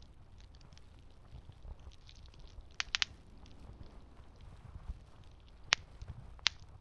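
Campfire crackling: a low, steady rumble of burning wood with faint ticks, a quick run of three sharp pops about halfway through, and two louder single pops near the end.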